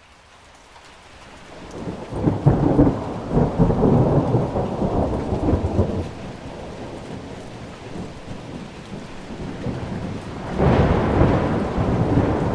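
Thunderstorm: steady rain hiss fading up from silence, with rolling thunder rumbling loudly from about two seconds in for several seconds. A second peal of thunder breaks near the end.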